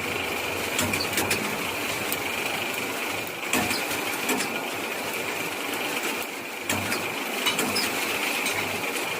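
A small machine running steadily, with scattered sharp clicks and taps over it.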